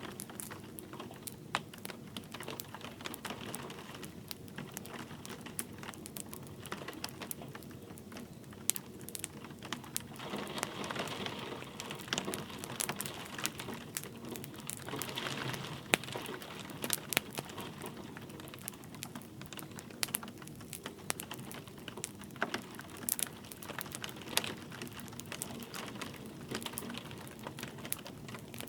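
Wood fire crackling with frequent sharp pops and snaps over a steady hiss of light rain. The fire swells louder twice, about ten and fifteen seconds in.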